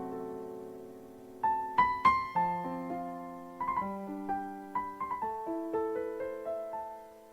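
Background piano music: a held chord dying away, then a gentle run of single notes and chords starting about a second and a half in, each note struck and left to ring, fading out near the end.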